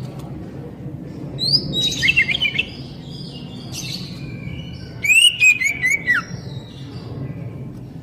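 Oriental magpie-robin (kacer, poci type) singing: two bursts of quick, varied whistles and chirps, the first about a second and a half in and the second, loudest, about five seconds in, with softer notes between, over a steady low hum.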